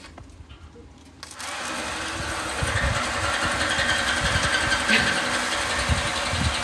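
A small motorised machine starts up about a second in and runs with a steady whirring whine, getting louder a moment later.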